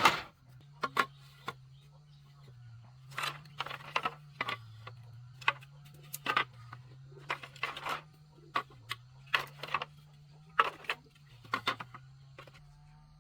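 Irregular sharp knocks and clicks, about one or two a second, over a faint steady low hum.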